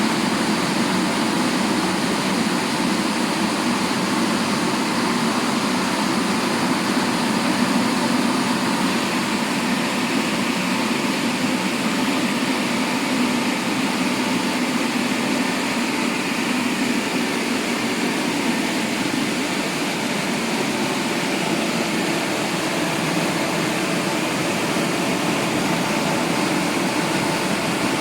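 Double-arm touchless car wash machine running: a steady rushing noise that never breaks.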